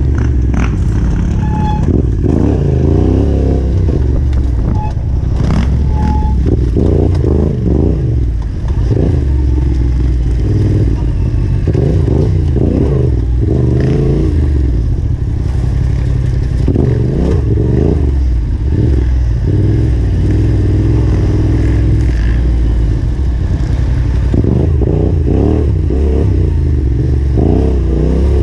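Yamaha Ténéré 700's parallel-twin engine revving up and down over and over under throttle on a rough trail, with occasional knocks and clatter from the bike.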